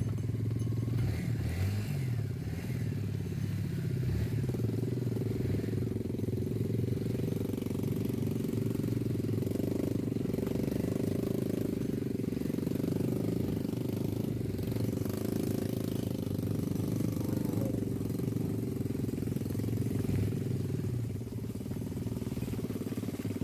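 A small engine running steadily at an even speed, easing off slightly near the end.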